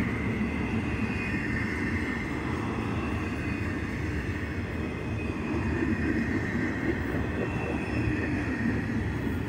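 Train cars rolling past on the rails: a steady rumble, with a faint high ringing that comes and goes.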